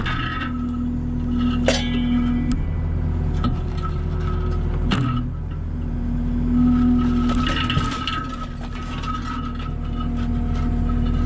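Skid steer's engine running steadily, with a few sharp metallic clanks about two seconds in and again about five seconds in.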